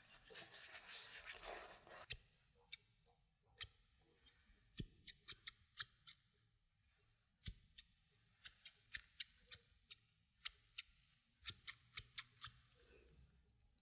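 Barber's scissors snipping the air again and again in short runs of crisp metallic snips, after about two seconds of soft rustling: the blades being tried out to see whether they are still sharp.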